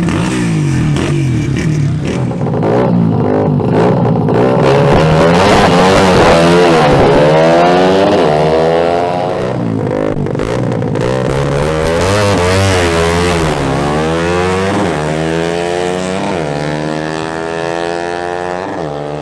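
AKT 125 LS and Bajaj Pulsar NS200 motorcycles accelerating hard down a drag strip. Their engines rev up in rising sweeps, dropping back at each gear change, then become somewhat quieter in the later seconds.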